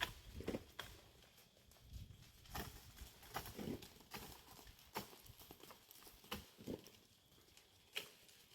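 Irregular sharp knocks and clicks, roughly one a second, some with a duller thud, at low level.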